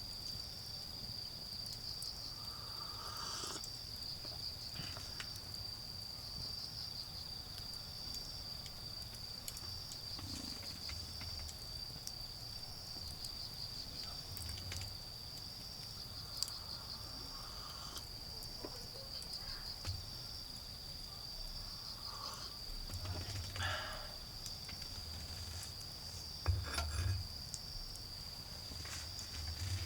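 Autumn insects singing in a steady high-pitched trill with a regular pulsing chirp over it, alongside the occasional small crackle and pop of a wood fire burning down to coals. A faint low rumble of distant traffic rises a few times, most in the second half.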